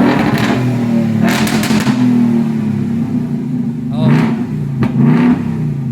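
2025 Mustang GT's 5.0-litre V8 running with its muffler removed, a loud, deep straight-through exhaust note at idle, its pitch wavering with small blips of the throttle about four seconds in.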